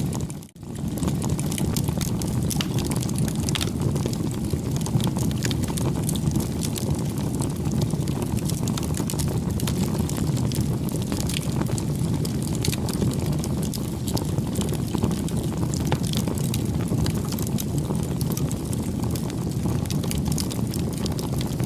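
Wood campfire burning: a steady low rush of flames with frequent small, irregular crackles and pops from the burning wood. The sound drops out briefly about half a second in.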